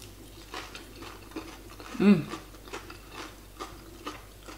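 Crunchy chewing of crispy battered fried sweet potato: a scattered run of small crackling crunches. About two seconds in comes a short hummed 'mmm' of enjoyment, the loudest sound.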